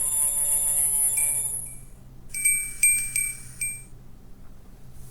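Electronic chime sounds from a capsule-toy sound-effect gadget: a pitched tone fading out over about two seconds, then a bright chime struck four times in quick succession.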